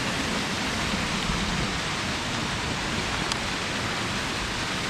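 Steady rush of water running down a mountain stream's drainage over rock.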